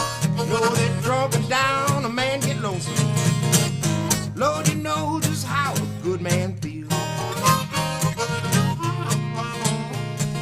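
Acoustic blues instrumental: picked guitar keeps a steady rhythm over a bass line, while a lead line bends its notes up and down, about a second in and again around the middle.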